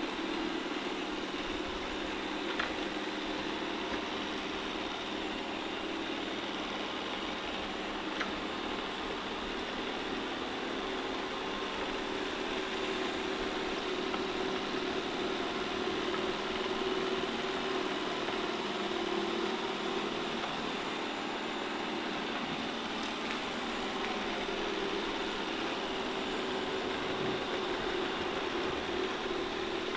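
Shark IQ robot vacuum running as it cleans, a steady motor and brush hum.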